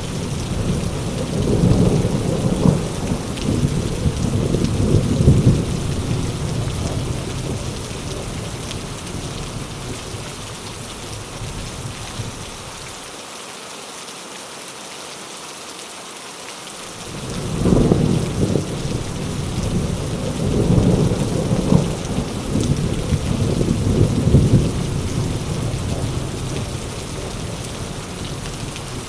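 Heavy rain falling steadily through a thunderstorm, with rolling thunder. One long rumble dies away over the first ten seconds or so, and after a lull a new peal breaks in suddenly about two-thirds of the way through and rolls on for several seconds.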